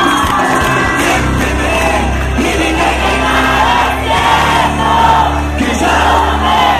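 Live band music with a crowd singing along.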